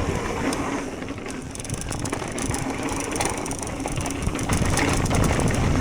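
Mountain bike's rear freehub ticking rapidly while coasting over rough trail, with tyre rumble and bike rattle underneath.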